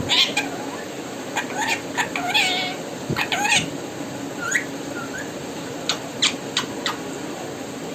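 Pet parrot giving a string of short squawks and chirps, some with a bending pitch, most of them in the first half, then a few sharp clicks near the end.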